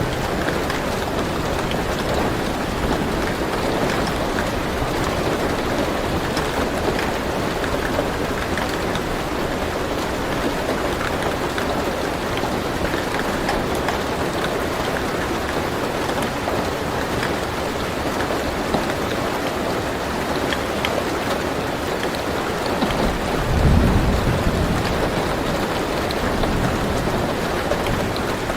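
Steady rain falling on a car roof, heard from inside the car, with a low rumble of thunder about 23 seconds in.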